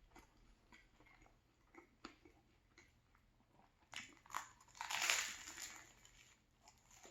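Close-up mouth sounds of someone chewing a crusty banh mi sandwich: faint, scattered wet clicks, then a sharp bite about four seconds in and a louder crunch lasting about a second.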